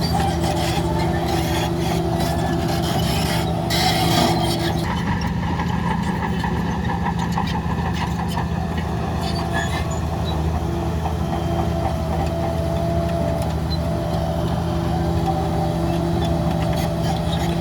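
Heavy diesel engine of earthmoving machinery running steadily, with a short hiss about three to four seconds in and scattered metallic clanks.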